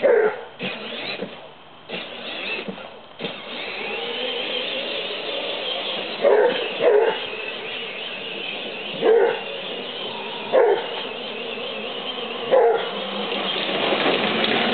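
A hound dog barking in short, loud calls every second or two while chasing a moving Jeep, over a steady rushing noise from the vehicle.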